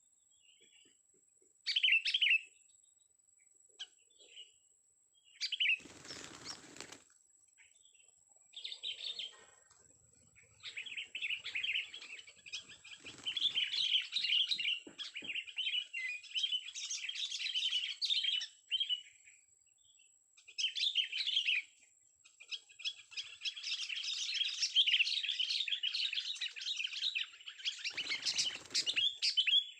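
A young sooty-headed bulbul (kutilang) chirping: a few short calls at first, then long runs of rapid, chattering notes with short pauses. Wings flap briefly twice, once about six seconds in and once near the end.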